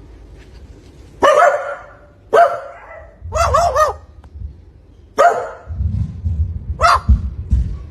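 A dog barking five times. The middle bark is drawn out with a wavering pitch, like a short howl. A low rumble runs underneath the last two barks.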